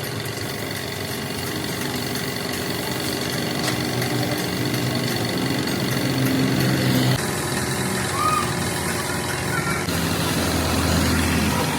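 An engine idling steadily, its sound changing abruptly twice, about seven and ten seconds in.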